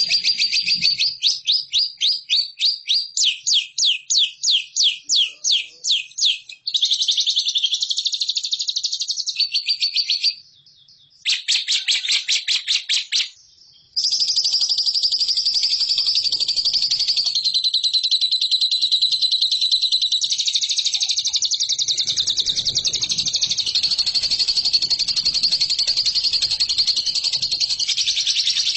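Lovebird singing: a run of rapid, repeated high chirps, about three a second, then busier chatter broken by two short silences, and from about halfway on a long, unbroken high chattering trill, the drawn-out 'ngekek' song.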